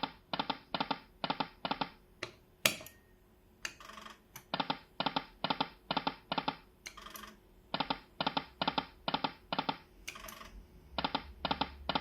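Timber Wolf video slot machine spinning: the reels land one after another with a short click each, about four a second, in four runs of five or six clicks, one run per spin. Brief brighter chimes sound between the runs.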